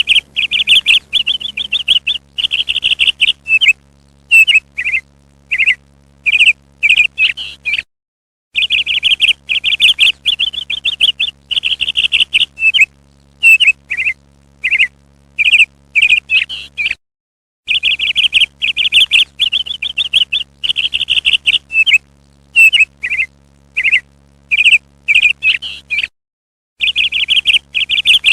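Parrot calls: a fast run of chirps followed by separate, spaced single calls. The same sequence repeats about every nine seconds, with brief dead-silent gaps between repeats.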